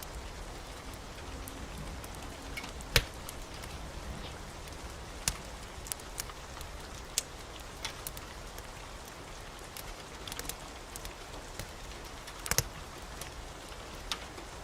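Steady rain hiss with a wood fire crackling over it: scattered sharp pops, about eight in all, the loudest about three seconds in and again near the end.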